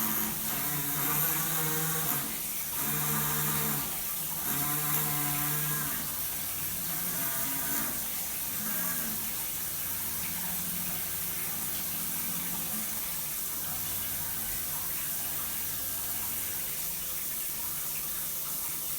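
Water running through a shower valve and handheld shower, with a low pitched moaning hum from a vibrating mixing-valve cartridge that swells and fades in waves about a second long, then carries on fainter and steadier. The vibration can be felt in the handle; it appears when hot and cold are mixed, and the builder suspects the cartridge needs adjusting.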